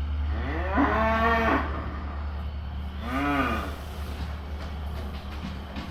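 Cattle mooing twice: a longer call about a second in and a shorter one that rises and falls about three seconds in, over the steady low hum of an engine running.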